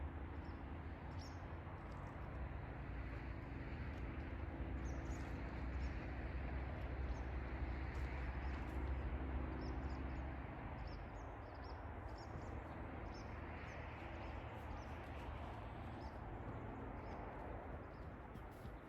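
Small birds chirping over a steady low engine hum that fades out about halfway through, with a rushing outdoor background.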